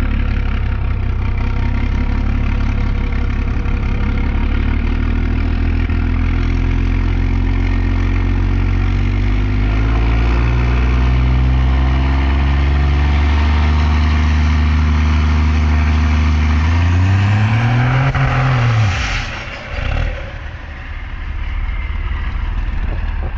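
Cummins inline-six diesel drag truck engine running hard, its pitch climbing slowly under load. About seventeen seconds in it revs up sharply, then falls away quickly as the throttle comes off, settling to a quieter, lower engine sound near the end.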